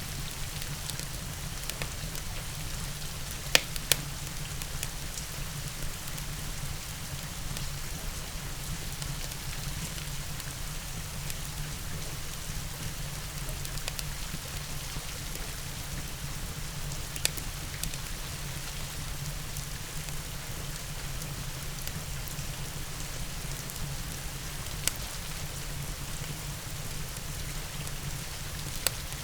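Steady rain mixed with a wood fire in a fireplace. A few sharp pops from the fire stand out: two close together about three and a half seconds in, then single ones scattered later.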